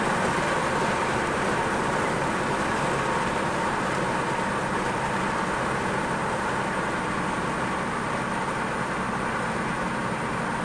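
Car on the move: steady road and engine noise.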